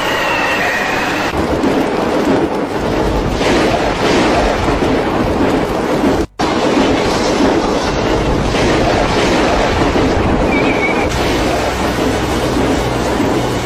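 Loud, steady storm noise of wind and rain on the microphone, with a strong low rumble, broken by a brief cut about six seconds in.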